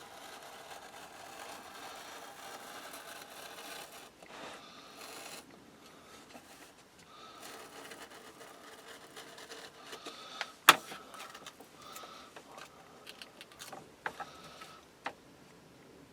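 Faint scraping of a sharp scalpel blade cutting round a transfer laid on wood. A single sharp click comes about ten and a half seconds in, and a few lighter clicks follow near the end.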